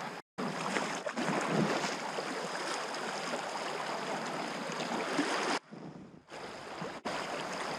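Steady rush of river water around a packraft, with no words. It drops away abruptly about two-thirds of the way through, then returns.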